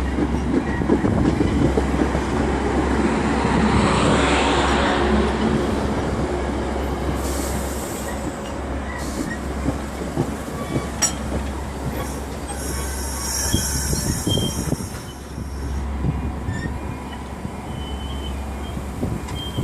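Metra commuter train with its MP36 diesel locomotives running: a steady low engine hum under the rumble of the rail cars, with wheels squealing and some clattering of wheels over rail joints.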